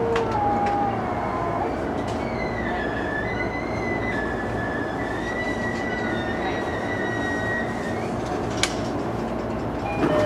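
E233 series electric commuter train running on the rails, its running noise heard from the driver's cab. A high, wavering wheel squeal sets in about two seconds in and fades near the end, and a single sharp click comes shortly after.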